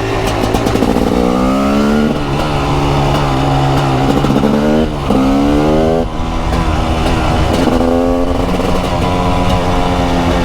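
TM SMR 300's 300cc single-cylinder two-stroke engine accelerating hard, its revs climbing in several sweeps. Pitch drops briefly between sweeps, about five and six seconds in, as it shifts up or rolls off the throttle.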